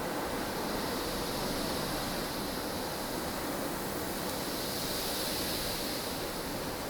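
Recorded snowstorm ambience: strong, steady wind with a hissing rush that swells and eases slightly around the middle.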